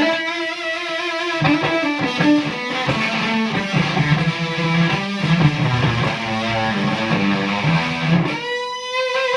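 Electric guitar (Gibson SG Standard) played through an Octavia-clone octave fuzz pedal with the fuzz turned up and the octave on, into a Laney AOR 30 valve combo: a fuzzy riff of sustained notes that is heavily compressed and not a very full sound. It ends on a held note that wavers.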